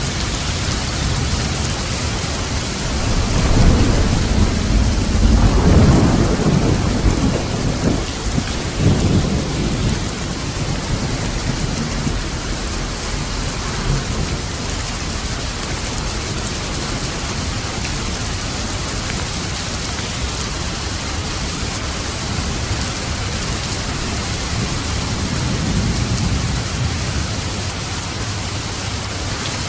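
Steady rain falling, with a long roll of thunder that swells about three seconds in and rumbles for several seconds, and a fainter rumble near the end.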